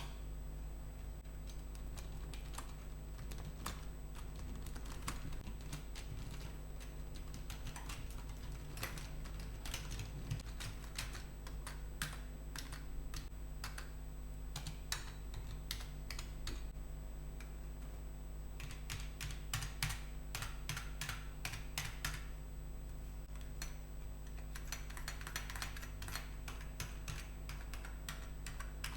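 Computer keyboard keys clicking as they are typed and pressed, in quick irregular runs with short pauses, over a steady low hum.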